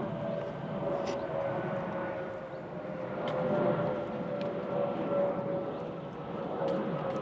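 A distant aircraft droning overhead, its steady engine tone sliding slowly lower as it passes, with faint clicks on top.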